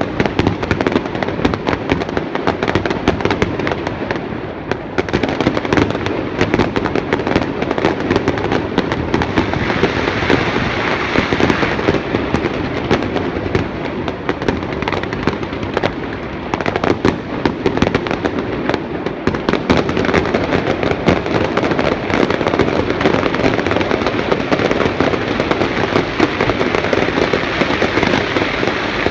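Aerial fireworks display: a dense, unbroken barrage of many bangs and crackles in quick succession.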